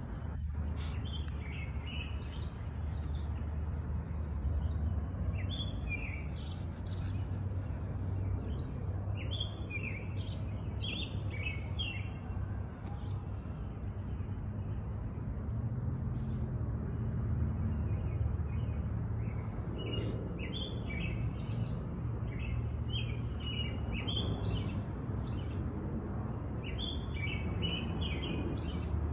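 Birds chirping and singing in woodland, short calls scattered all through, over a steady low rumble.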